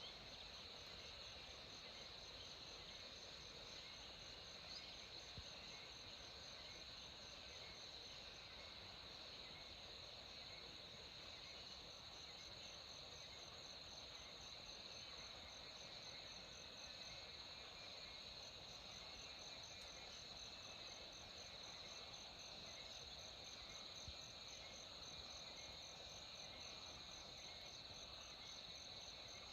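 Faint insect chorus: a steady high drone with a regularly pulsing, even higher trill above it.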